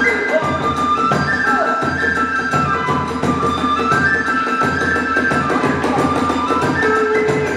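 Kagura hayashi accompaniment: a transverse bamboo flute plays a held, gliding melody over fast, steady drumming and hand cymbals.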